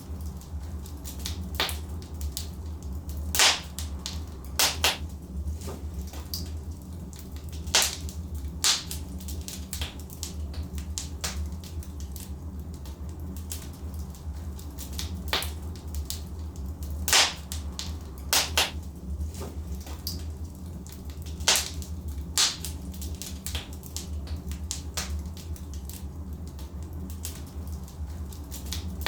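Logs burning in a fireplace, crackling with irregular sharp pops and snaps, a handful of them much louder than the rest, over a steady low rumble.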